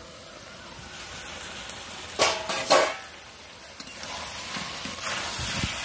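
Chicken and potato curry sizzling in a kadai as it is dry-fried in its spices without water, with two ringing metal clanks against the pan a little past halfway. The sizzle grows louder over the last two seconds.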